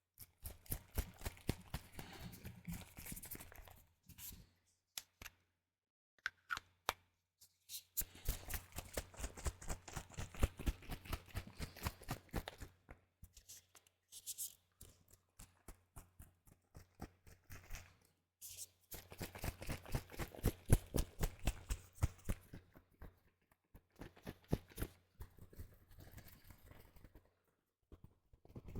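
Plastic spray bottle being pumped rapidly, its trigger clicking and spritzing several times a second in runs of a few seconds separated by short pauses.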